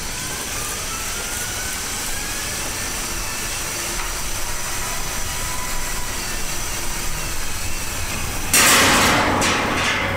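Heavy vehicle engine running steadily with a faint rising whine, then a sudden loud rush of noise near the end that slowly fades.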